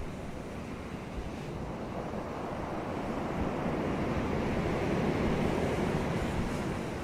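Ocean surf washing onto a beach: a steady rushing wash of breaking waves that builds over several seconds and eases a little near the end.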